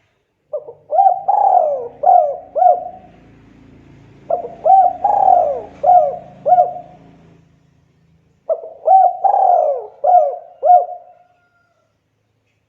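Spotted dove (tekukur) cooing: three phrases of about five short coo notes each, a second or so apart.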